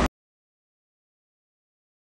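Total silence: the steady rumble of the passing through train cuts off abruptly just after the start, as the recording ends.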